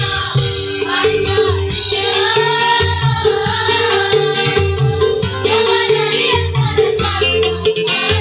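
School choir singing a melody over instrumental accompaniment with a steady, pulsing bass beat.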